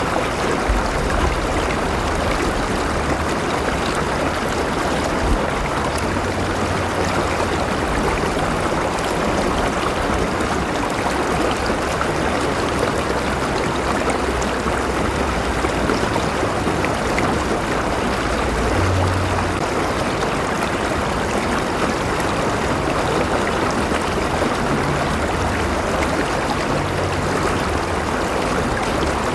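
River water flowing steadily over rocks, a continuous even rushing with small gurgles.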